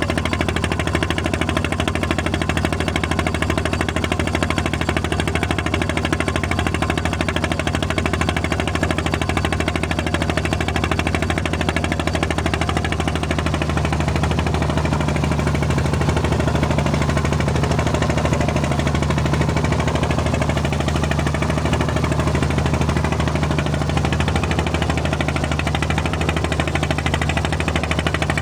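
Engine and propeller drone of a small Susi Air propeller plane heard from inside the cabin: a loud, steady, low hum with a fast even pulsing, growing a little deeper and stronger about halfway through.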